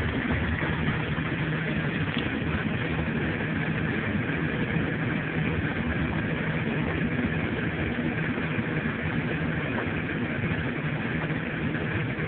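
A vehicle's engine running steadily with road noise while driving, with no change in pace.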